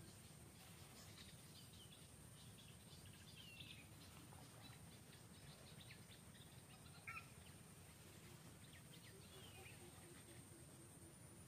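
Near-silent outdoor background with a steady faint high-pitched whine and scattered faint bird chirps made of short falling notes. One brief sharper chirp comes about seven seconds in.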